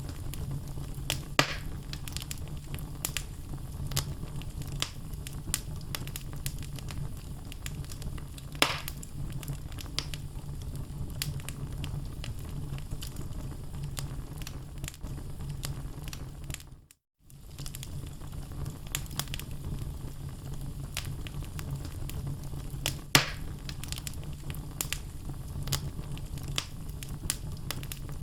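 Wood logs burning in a fireplace, crackling steadily over a low rumble of the flames, with three louder pops standing out. The sound cuts out briefly just past the middle, then resumes.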